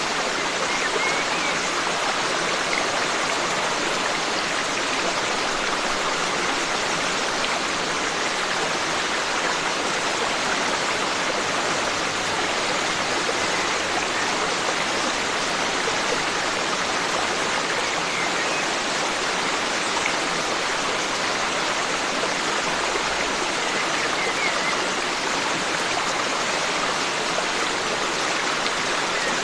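Forest stream flowing and rushing steadily over rocks, an even and continuous water sound.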